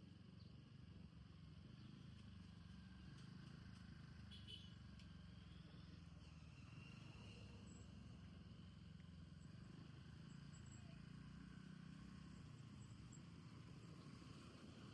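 Faint, steady low hum of a vehicle on the move, near silence, with a few faint higher sounds scattered over it.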